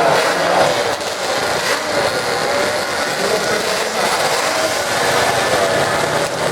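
Engines of off-road drag-racing vehicles running, their pitch wavering, under a steady wash of noise.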